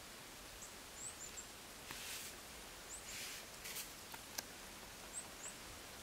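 Faint, high bird chirps, a handful of short ones scattered through, over a steady hiss, with a few brief soft rustles and a click or two.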